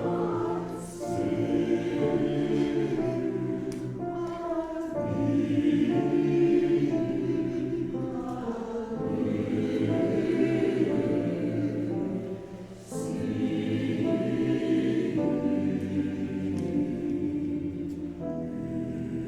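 Choir singing a slow anthem in several-part harmony, with short breaks between phrases about a second in and again around thirteen seconds.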